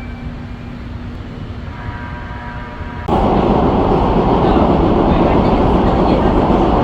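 Subway train running, a steady rumble with a whining motor tone. About three seconds in, a much louder rushing rumble starts abruptly.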